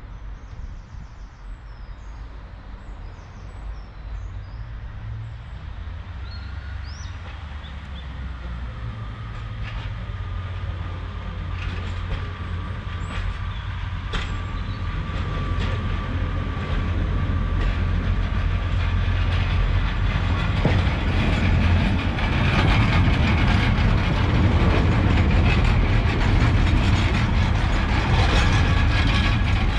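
Class 142 Pacer diesel railbus approaching and then passing close by. Its low engine rumble and wheel noise grow steadily louder, with a thin steady whine for several seconds in the middle.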